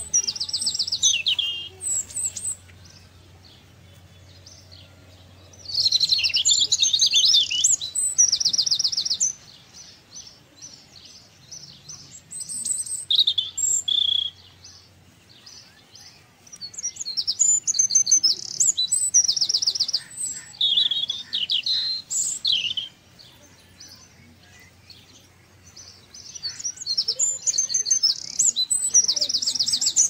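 Birds singing: bouts of high, rapidly trilled song a few seconds long, recurring every several seconds with quieter gaps between.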